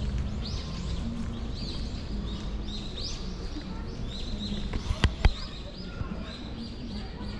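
Small birds chirping over and over in the trees, above a steady low hum of city background noise. Two sharp clicks about five seconds in.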